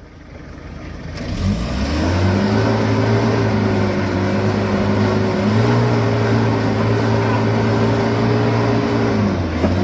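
4WD vehicle's engine revving up about a second and a half in and holding steady high revs, easing off near the end.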